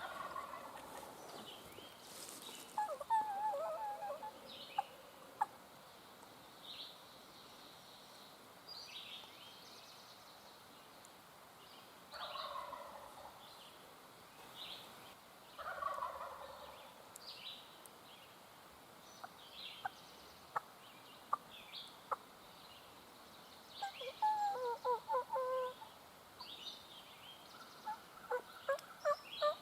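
A wild turkey gobbler gobbles three times: right at the start, about twelve seconds in and again soon after. Between the gobbles come runs of short, quick yelping notes, and small songbirds chirp throughout.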